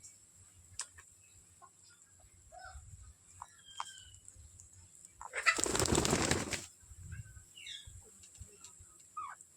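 Parrot wings flapping in one loud burst of about a second, about halfway through. Short scattered chirps and squeaks from the parrots come before and after it.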